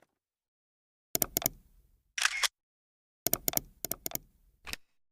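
Camera shutter clicks in several quick clusters, with short gaps of silence between them.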